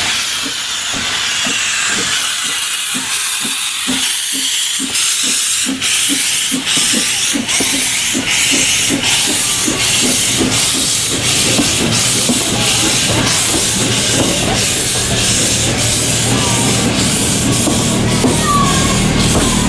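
Narrow-gauge steam locomotive starting away: a hiss of steam, then exhaust chuffs that come faster and faster as the train gathers speed.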